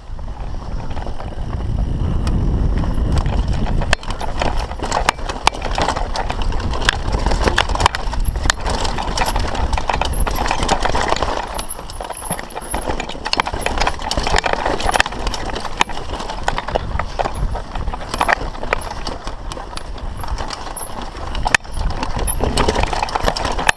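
Downhill mountain bike rattling and clattering over a rough trail: rapid, irregular knocks and clicks from the tyres, chain and frame over a constant rumbling rush of wind on the microphone.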